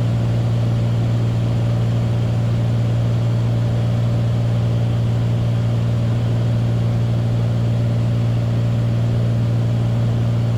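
Beechcraft Bonanza's single piston engine and propeller droning steadily in cruise, heard from the cockpit as a constant low hum with a steady rushing hiss.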